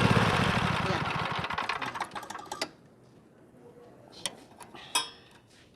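Kohler 7000 Series riding-mower engine running with a fast, even beat that fades and dies away over about two and a half seconds as it shuts off. A few light metallic clicks follow.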